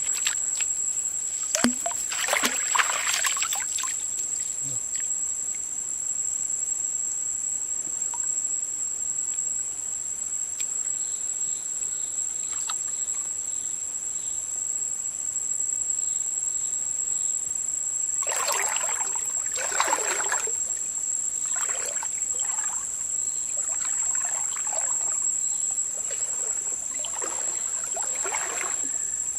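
Steady high-pitched insect drone of crickets or cicadas. Several short bursts of water splashing and sloshing come through it, the biggest about two-thirds of the way in.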